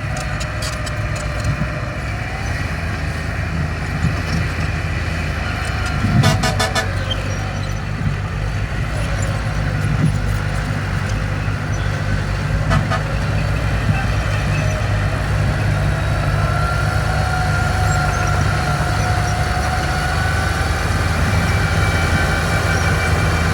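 Crawler bulldozer's diesel engine running steadily under load, with wavering whines over it and a brief burst of metallic clanking about six seconds in.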